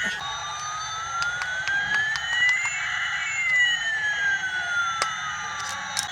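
Electronic siren-like tone that rises slowly for about three seconds and then falls back down. A second tone moves the opposite way, crossing it halfway, and a few light clicks come in near the end.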